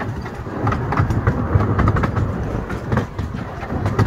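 Miniature railway train rolling along the track, heard from an open coach: a steady low rumble with irregular clicks of the wheels over the rail joints.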